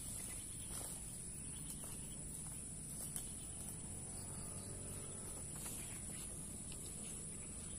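Steady high-pitched drone of insects, with a few faint clicks and rustles over a low outdoor rumble.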